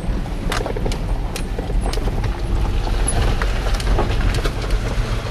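Vehicle driving over a rough dirt road: a steady low rumble of engine and road, with frequent rattles and knocks.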